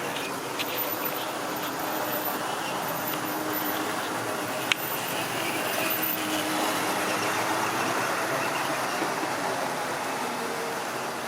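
Model railway train rolling along the track, a steady running rumble and rattle of wheels and motor, with one sharp click about five seconds in and a slight swell in loudness in the second half.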